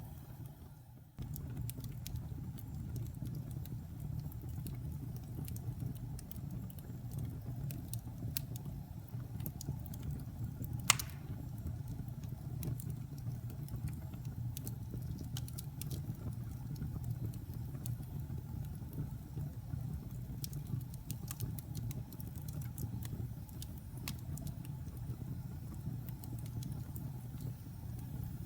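Wood fire crackling in a fireplace: scattered small pops and snaps over a low steady roar, with one loud sharp pop about eleven seconds in. The sound drops away for a moment near the start.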